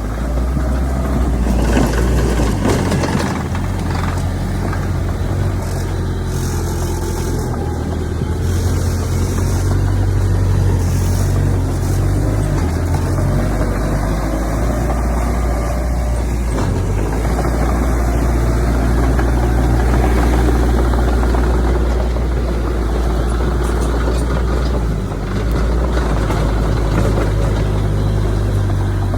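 Heavy diesel earthmoving machinery running steadily, a deep engine rumble that swells slightly now and then.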